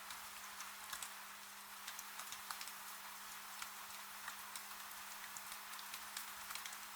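Wood fire crackling with irregular small pops over a steady hiss of rain, with a faint steady low hum underneath.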